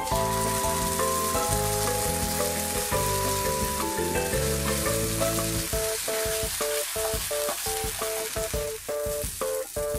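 Edamame pods sizzling in hot sesame oil in a frying pan as a miso and chili-bean sauce is added and the pan is tossed, under background music that turns to short rhythmic notes about halfway through.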